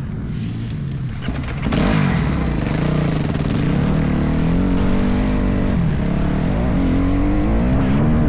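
Motocross bike engine being ridden hard, its revs climbing and falling again and again through the throttle, getting louder about two seconds in.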